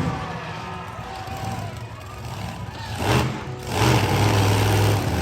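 Monster truck engine running at low revs, then surging louder about three seconds in and holding a strong, steady note.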